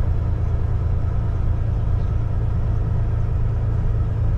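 Kenworth T680 semi truck's diesel engine running at a steady low drone, heard from inside the cab in slow traffic.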